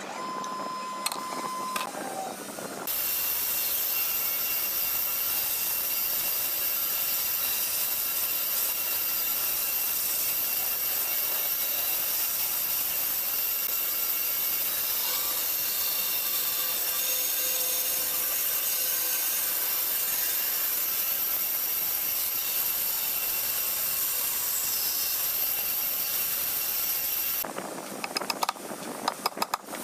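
A power tool cutting or working wood, running steadily with an even, hissing sound from about three seconds in until near the end. Scattered knocks and clicks of work on the wood come before and after it.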